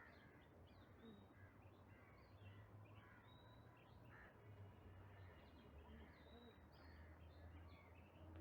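Faint outdoor birdsong: many short chirps and calls from several birds, over a low steady hum.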